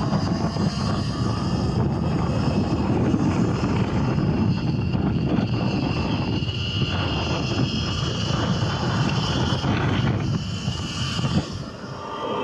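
A Surron electric dirt bike riding along, with wind rumbling on the microphone and the steady high whine of the electric motor; the sound dips briefly near the end.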